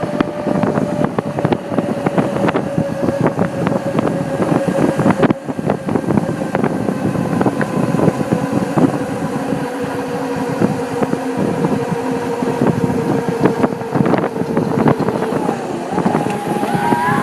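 A mini bike's small engine running under steady throttle while riding. Its note holds and sinks slowly in pitch, with frequent rattles and knocks from the ride.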